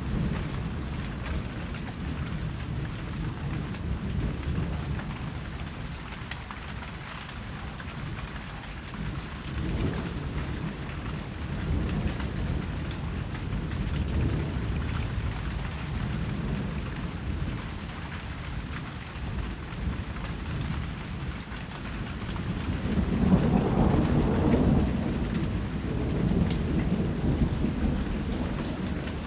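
Steady rain falling, with a low rumble of distant thunder swelling up about three-quarters of the way through and then fading back into the rain.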